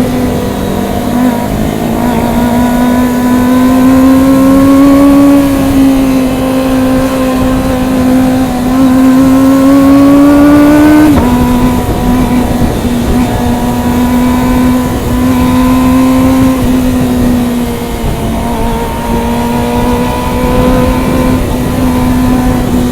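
Motorcycle engine running under way, its note climbing slowly with speed and then dropping suddenly about halfway through, as at an upshift, before holding steady. Wind rushes over the microphone throughout.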